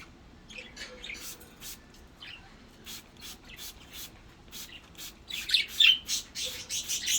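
Budgerigars chirping and squawking in short calls, busiest and loudest in a cluster near the end.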